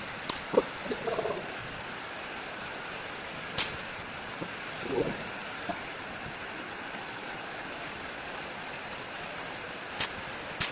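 Steady heavy rain on a corrugated metal roof, with two sharp cracks standing out from it, one about three and a half seconds in and one near the end.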